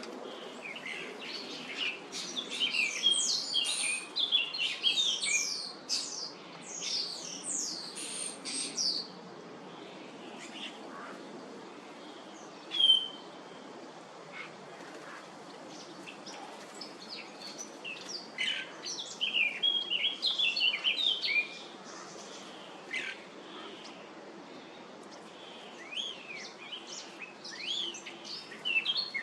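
European starlings chattering and chirping in busy bouts of quick, high calls: one long bout in the first third, another past the middle and a third near the end, with a single loud chirp in between.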